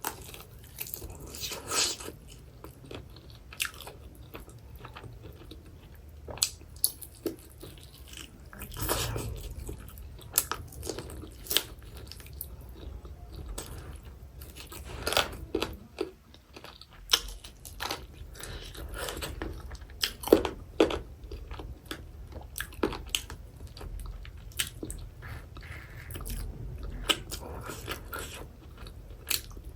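Close-miked biting and chewing of hot lemon garlic chicken wings, with irregular crunches and wet mouth sounds.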